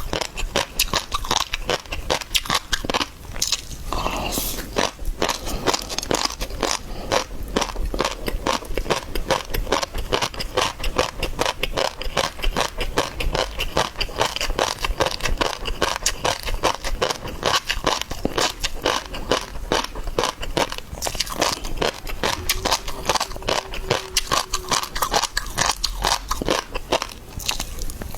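A person chewing and biting seafood: a continuous run of wet crunching and crackling chews.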